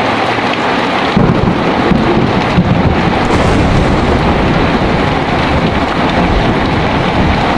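Heavy steady rain, with a low rolling rumble of thunder that sets in about a second in and carries on underneath.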